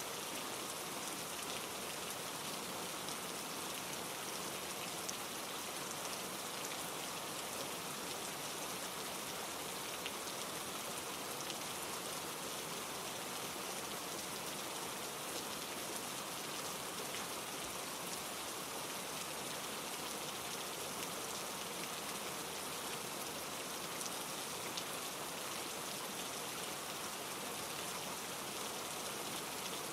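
Steady rain falling through trees, mixed with a mountain stream running over rocks, with a few sharper drop ticks.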